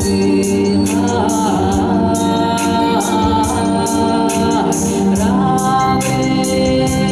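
A song: a singing voice over a sustained organ-like synthesizer backing, with a steady beat ticking about twice a second.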